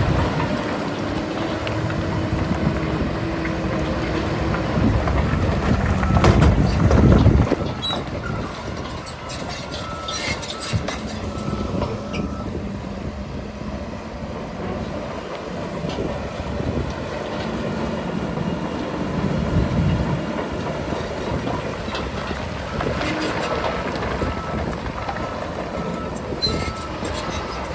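Heavy earthmoving machinery at work: diesel engines run steadily, with metallic clanks and clatter at times, loudest about six to seven seconds in.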